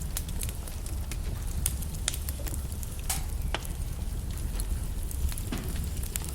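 Wood logs burning in a fireplace: irregular sharp crackles and snaps over a low, steady rumble, with a louder pop about three seconds in.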